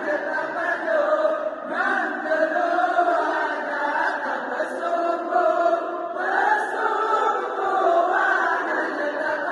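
Voices chanting a continuous melodic sahur wake-up call, the notes held and gliding without a break.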